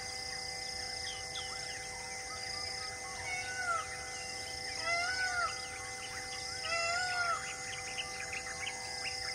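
Birds calling: many short chirps, and three louder arching calls that rise and fall, about three and a half, five and seven seconds in, over a few steady held tones.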